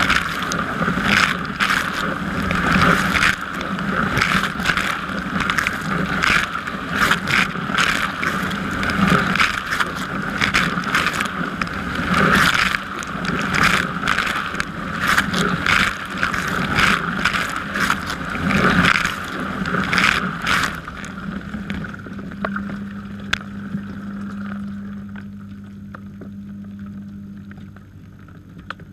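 Dishwasher spray arms jetting water against the racks and walls, heard from inside the tub, with uneven splashing. About 21 seconds in the spraying stops, and the machine's low steady hum carries on, growing fainter.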